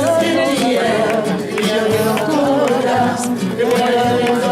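A song: a voice singing with wavering pitch over instrumental backing.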